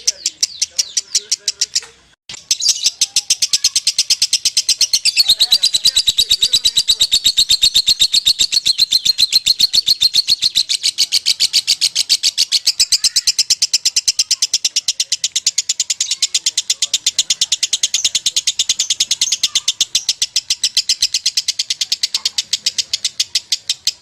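Lovebird giving a long ngekek: a fast, unbroken string of shrill chattering notes that stops briefly about two seconds in, then runs on steadily.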